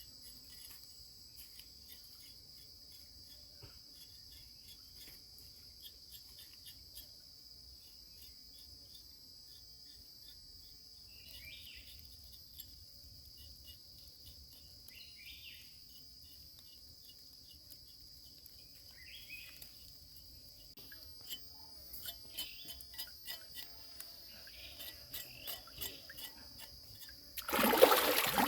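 A steady, high chorus of insects, like crickets, with a few short chirps and scattered small clicks. Near the end comes a sudden louder burst of water splashing.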